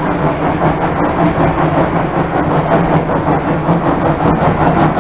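Riding a 30-inch narrow-gauge steam train drawn by a small 0-6-2T tank locomotive: a steady rumble and clatter of the cars rolling along the rails.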